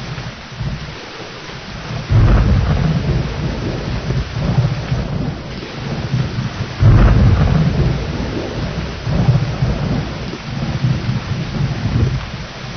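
Steady rain with rolling thunder: a rumble breaks in suddenly about two seconds in, and a second, the loudest, comes about halfway through. Each rolls on unevenly for a few seconds before fading back into the rain.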